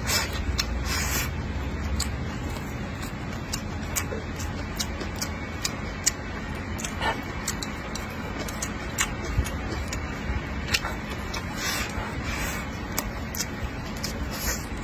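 Close-miked eating of braised pork belly and rice: chewing with frequent short, sharp wet mouth clicks and smacks, and brief sucking slurps about a second in and again near twelve seconds, over a steady low background hum.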